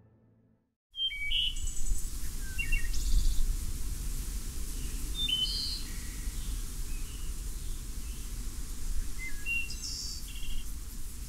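Small birds giving short, scattered chirps and tweets over a steady low outdoor rumble, the ambience cutting in about a second in.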